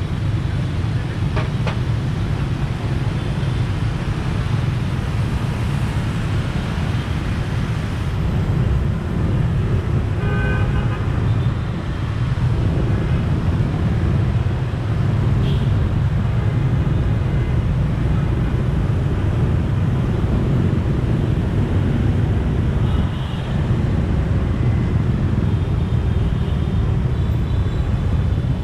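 Riding a motorbike through city traffic: a steady low rumble of engine and road noise, with a short vehicle horn honk about ten seconds in and a fainter one later.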